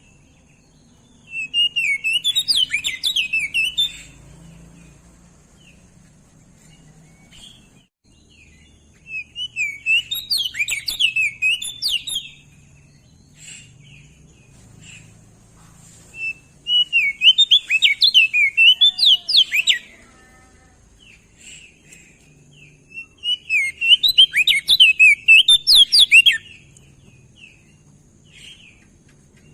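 Crested white-eye (opior jambul) singing: four bursts of rapid, tumbling warbling, each about three seconds long and several seconds apart, with faint short call notes between them.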